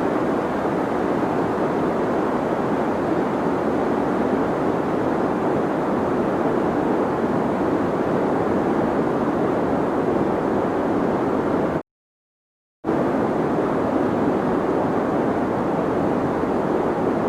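Steady deep white noise, an even hiss weighted toward the low-middle range. It cuts out to dead silence for about a second past the middle, then resumes unchanged.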